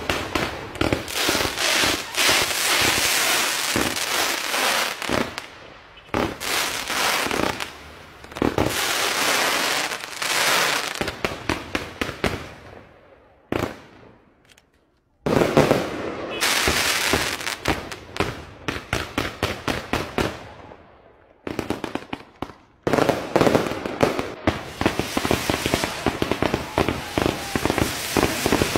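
Fireworks display: rapid runs of bangs and crackling from fountains and aerial shells, dying down to a brief lull about halfway through, then starting again suddenly in fast volleys.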